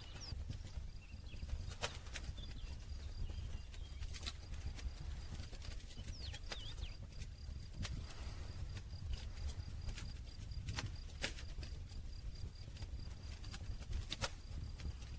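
Campfire crackling: burning wood giving irregular sharp pops and snaps, more than a dozen, over a low steady rumble. A faint high pulsing trill runs steadily underneath.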